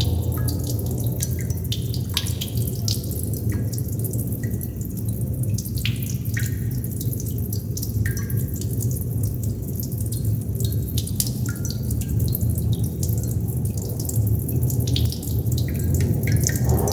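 Water droplets dripping at an irregular pace, each landing as a sharp tick, many with a short pitched plink, over a steady low rumble.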